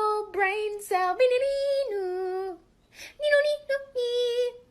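A high voice singing a simple tune in short held notes that step up and down, pausing briefly about halfway through.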